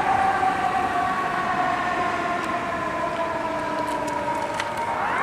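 Fire engine's siren wailing, its pitch sliding slowly down, then climbing sharply again near the end.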